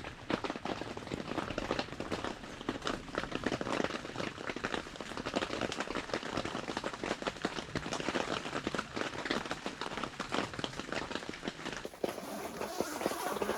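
Rain pattering on a tent, a dense, irregular crackle of many small drops.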